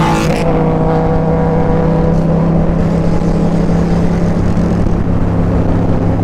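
Motorcycle engine running at a steady cruising speed, its note holding one pitch, under rushing wind noise, with a brief gust of noise at the very start.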